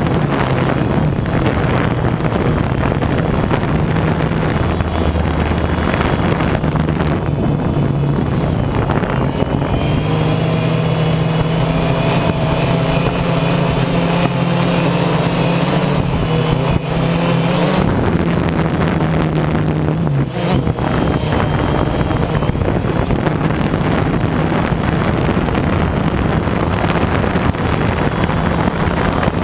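A motor vehicle engine running under a constant noisy rush. Its note grows stronger, with a clearer hum, from about ten seconds in and drops back near eighteen seconds.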